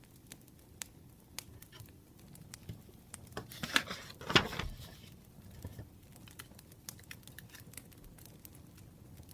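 Scattered light clicks and ticks over a quiet background, with a brief burst of rustling and a knock about four seconds in, the sound of things handled on a study desk.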